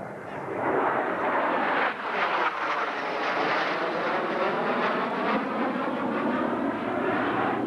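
Military jet roaring through a minimum radius turn, its engine noise swelling in about half a second in and then holding loud and steady, with a slowly shifting pitch as it passes.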